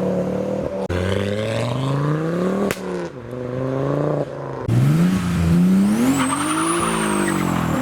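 A car engine accelerating hard from a standstill: the revs rise, break at a gear change a third of the way in, then climb again. A thin high whine rises and slowly falls near the end.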